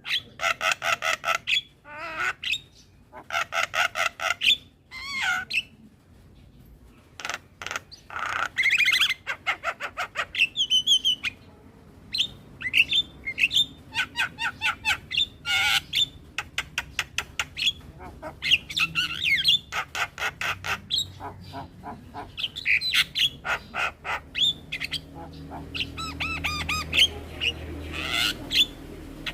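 Javan myna (jalak kebo) singing: a varied, continuous run of harsh chattering calls, fast trains of repeated notes and short gliding whistles.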